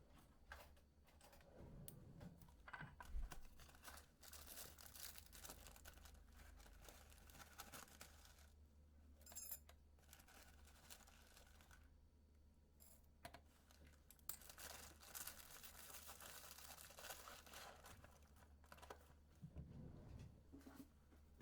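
Faint rustling and scattered small clicks, like things being handled, over a low steady hum.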